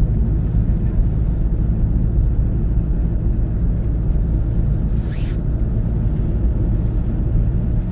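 Car driving on the road, a steady low engine and tyre rumble, with a brief higher hiss about five seconds in.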